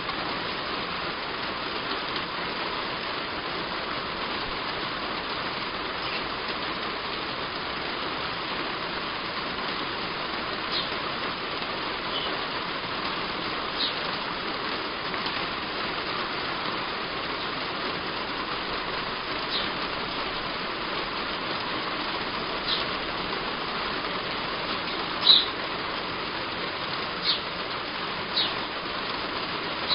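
Heavy rain drumming steadily on a roof, with a bird giving short high chirps every few seconds from about a third of the way in, loudest near the end.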